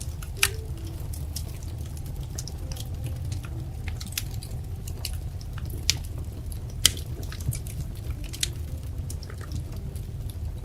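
Wood fire crackling: irregular sharp pops and snaps over a steady low rumble of burning, with a few louder pops about half a second in and again around six and seven seconds in.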